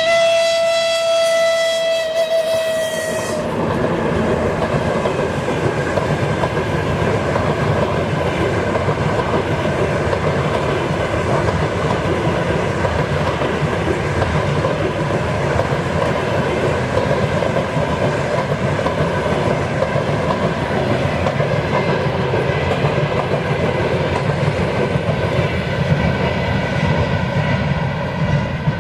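A locomotive's horn holds one high note, cutting off about three seconds in. After it comes the steady rumble and rattle of a train's wheels on the rails as the train runs past, easing slightly near the end.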